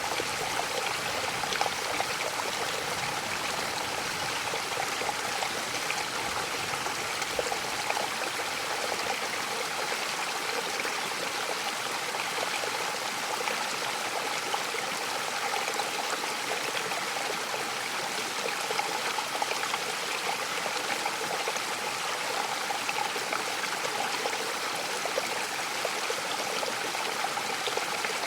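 Mountain waterfall: falling water splashing with a steady, unbroken rush.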